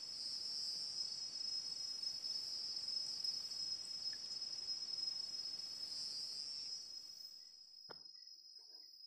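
Steady high-pitched chorus of forest insects, with a soft hiss beneath it that drops away about seven seconds in. A single sharp click comes about eight seconds in.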